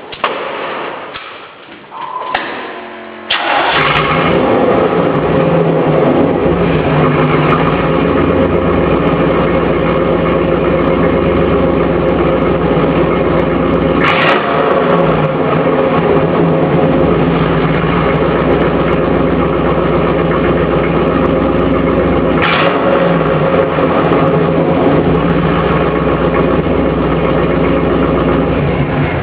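Chevrolet Camaro engine cranking over and catching about three seconds in, then idling steadily through its exhaust. The note is briefly disturbed twice, around the middle and again about two-thirds of the way through.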